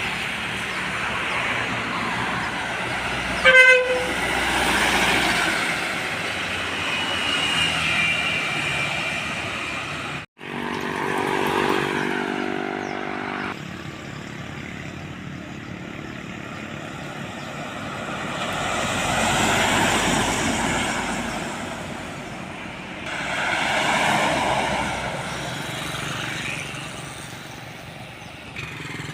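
Heavy road traffic of trucks and buses passing by, with a short, loud horn toot about three and a half seconds in. The sound drops out briefly near the middle, and later two more vehicles pass, each rising and falling in level.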